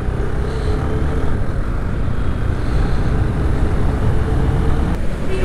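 Motorcycle running at riding speed with steady wind rush on the camera microphone.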